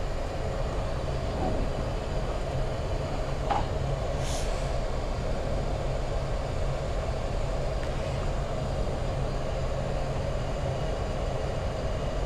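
Steady cockpit noise of a Boeing 737 MAX 8 taxiing with its CFM LEAP-1B engines running: a low rumble under a constant hum, with a brief faint hiss about four seconds in.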